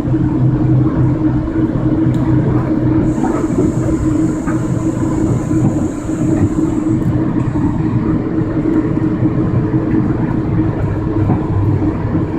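Amtrak passenger train heard from inside the car: a steady rumble and hum of the train running as it arrives at a station. A high hiss joins in about three seconds in and stops about four seconds later.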